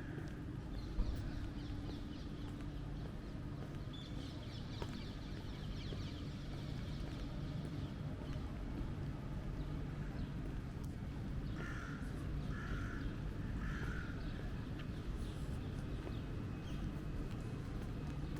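A crow cawing three times, about a second apart, over a steady low street rumble. Thin chirps from smaller birds come in the first half.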